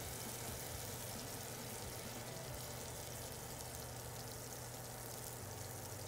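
Chopped tomatoes and green chillies sizzling steadily in hot ghee in a frying pan as they are sautéed down.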